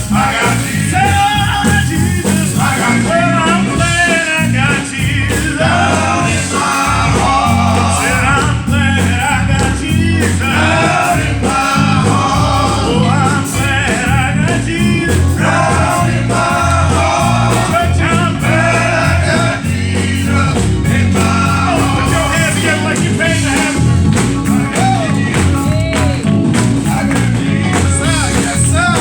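Gospel praise-and-worship song performed live: singing over a band with a steady bass line and drum beat.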